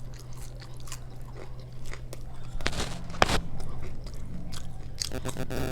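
Close-miked eating: chewing and biting with wet mouth sounds and a few sharp crunches, the loudest a little after the middle, over a steady low hum.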